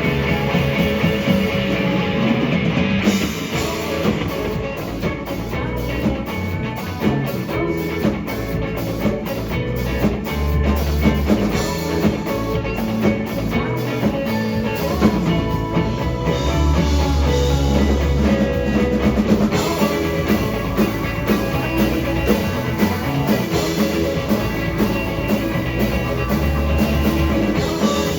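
Rock band playing live: a full band with drum kit, guitar and bass, with steady cymbal hits through most of the passage.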